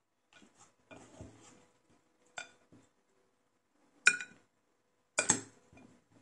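Metal cutlery clinking against a dish several times, each strike ringing briefly, with the two loudest strikes about four and five seconds in and softer scraping and handling between.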